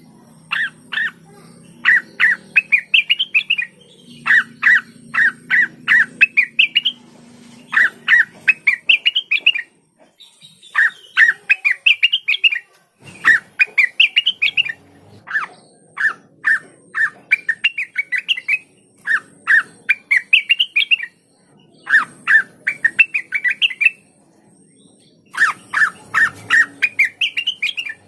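Blue-winged leafbird (cucak wilis) singing: run after run of quick, sharp, chattering notes, some phrases climbing in pitch at the end, with short pauses between runs.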